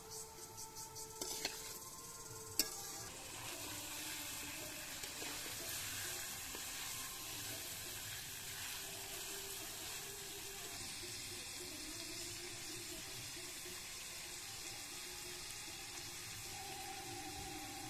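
Food frying in hot oil in a kadai, a steady sizzle. It begins with a brief rhythmic scraping, then one sharp knock about two and a half seconds in.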